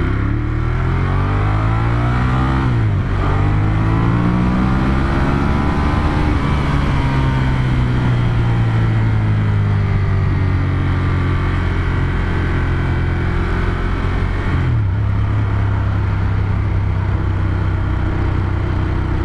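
Ducati Monster 1200S's 1200 cc L-twin engine on its stock exhaust, revving up under hard acceleration with a gear change about three seconds in, then pulling up again. It eases off slowly and drops to a steady lower note after another shift about three-quarters of the way through.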